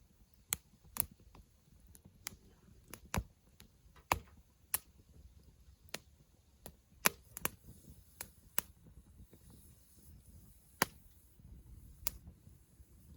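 Wood campfire crackling: irregular sharp pops and snaps, roughly one a second, over a faint low rumble of the burning fire.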